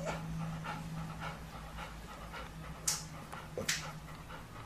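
A dog panting, about three quick breaths a second, with two sharper hissy breaths near the end, over a steady low hum.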